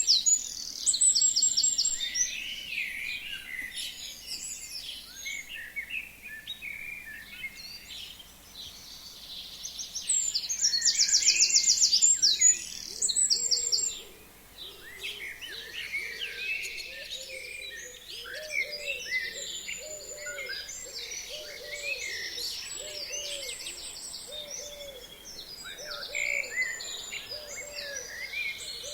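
Several forest birds singing together in spring, with many high chirps and whistles. A loud, rapid, high trill sings twice, at the start and again about a third of the way in. From a little past halfway, a low call repeats steadily about once a second under the chorus.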